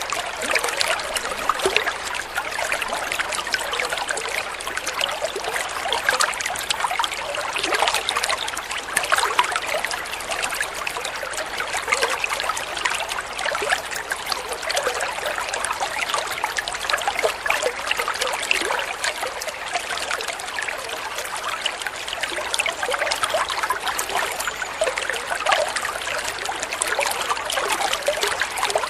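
Flowing water trickling and splashing steadily, a constant wash of small splashes with no pauses.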